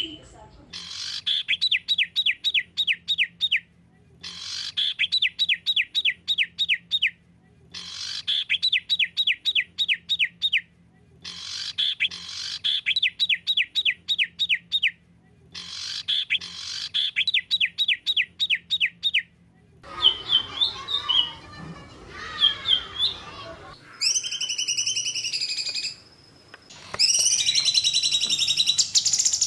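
A songbird repeating a fast burst of sharp, evenly spaced notes, about four or five a second, in phrases of about three seconds separated by short pauses, the 'tembakan' burst of a masteran song-training track. In the last third it changes to varied chirps and other calls.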